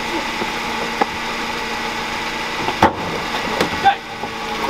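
A car engine idling steadily, with several short, sharp knocks over it, the loudest about three seconds in.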